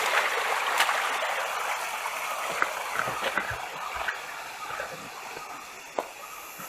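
Flowing stream water at a waterfall pool, a steady rush that gradually grows quieter, with a few small splashes and drips.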